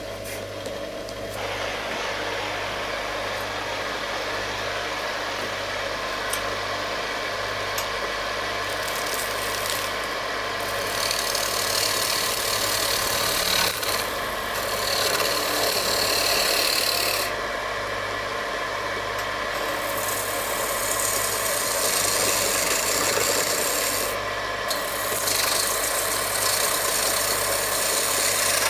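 Wood lathe running with a steady motor hum while the spinning wooden shovel-handle blank is worked, giving a loud rough scraping that eases briefly a few times.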